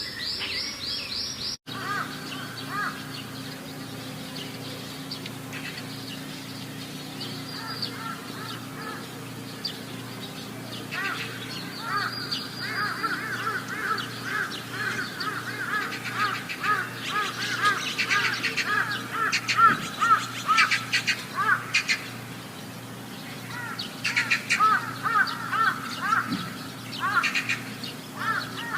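Birds chirping and chattering in quick, repeated calls over a steady low hum, with a brief dropout about a second and a half in.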